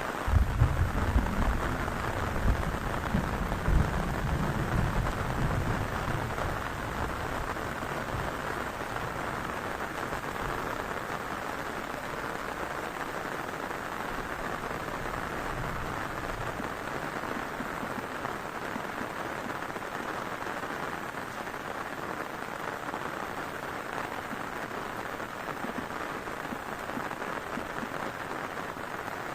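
Heavy rain falling steadily. A low rumble of thunder swells and fades over the first several seconds.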